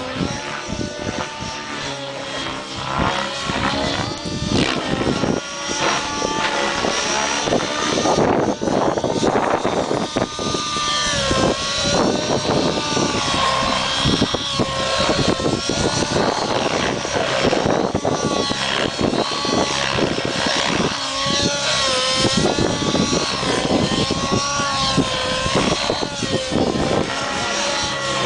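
Nitro-powered Align T-Rex 700 RC helicopter flying 3D aerobatics: its two-stroke glow engine and rotor whine rise and fall in pitch again and again as it manoeuvres.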